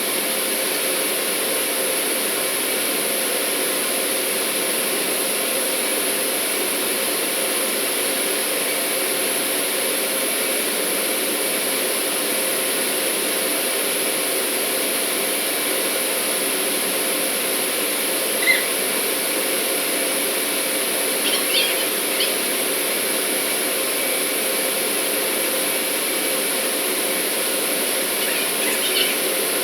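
Steady, loud industrial machinery noise with a constant whine and hum, its pitch and level unchanging. A few short high squeaks break in near the middle and again near the end.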